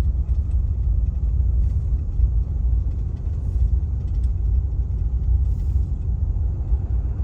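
Steady low rumble, loud and unvarying in kind, with its level wavering slightly.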